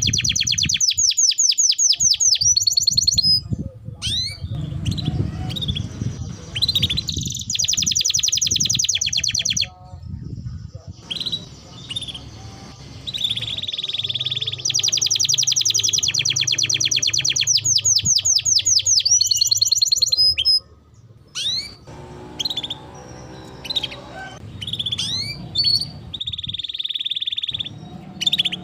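Domestic canary singing: long, very fast rolling trills of repeated high notes lasting several seconds at a time, broken by short pauses and scattered single chirps.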